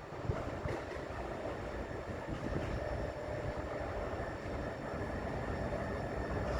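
Train approaching along the track, a steady rumble that grows gradually louder, with faint steady whining tones.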